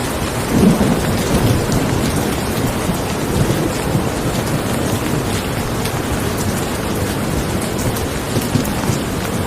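Steady, heavy rain falling, with low rumbles of thunder in the first few seconds.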